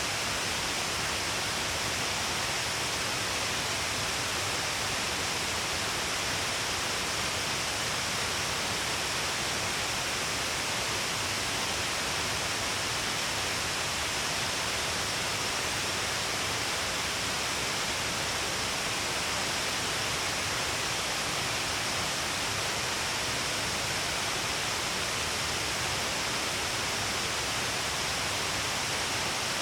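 Shiraito Falls, many streams of water pouring down a long cliff face, making a steady, even rush with no breaks or changes.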